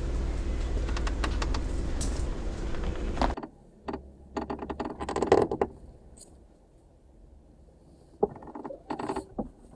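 Jeep engine running steadily, cutting off abruptly about three seconds in; scattered mechanical clicks and knocks follow.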